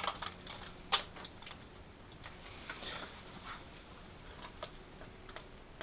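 Scattered light clicks and taps of metal and cable being handled, with one sharper click about a second in, as the output cable on the back of a car alternator is worked out of the way.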